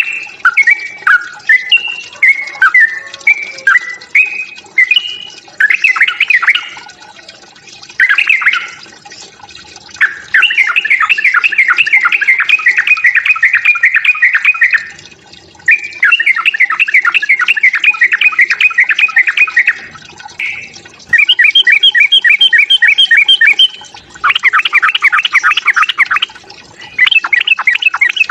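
Yellow-vented bulbul (trucukan) giving its agitated fighting calls: at first a string of short, bubbly, falling whistled phrases, then long rapid chattering runs lasting several seconds each.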